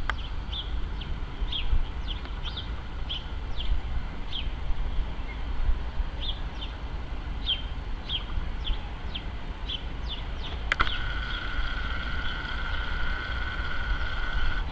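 Small birds chirping, many short falling chirps one after another, over a steady low rumble. About eleven seconds in, a click is followed by a steady high whine.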